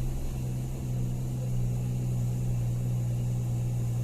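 Truck engine running at a steady pace on the move: a constant low drone with road noise over it.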